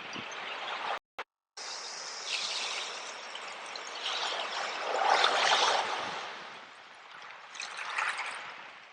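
Sea waves washing in, a larger surge in the middle and a smaller one near the end. The sound cuts out completely for about half a second, a second in.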